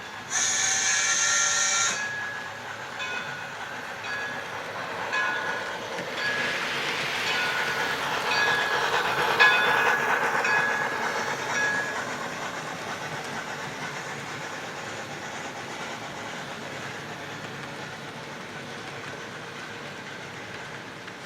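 HO scale model steam train running past. It opens with a short high hiss, its running noise swells to a peak about ten seconds in, with brief tones over it, then fades away.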